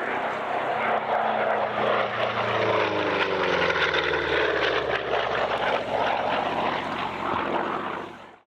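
Republic P-47 Thunderbolt's Pratt & Whitney R-2800 eighteen-cylinder radial engine and propeller passing overhead in a flypast. Its pitch falls as it goes by, about three seconds in, and the sound cuts off suddenly near the end.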